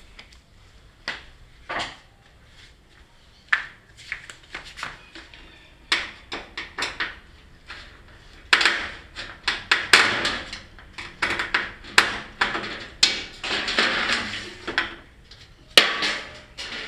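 Clatter of parts being handled while a washer-dryer is taken apart: scattered clicks and knocks, then a denser run of rattling and scraping from about eight seconds in.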